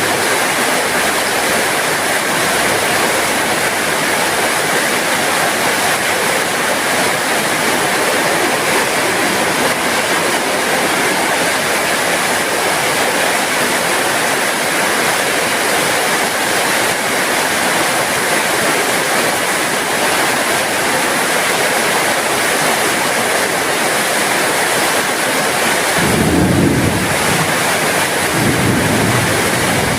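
Heavy rain falling steadily, an even hiss with no single drops standing out. A low rumble rises under it about four seconds before the end.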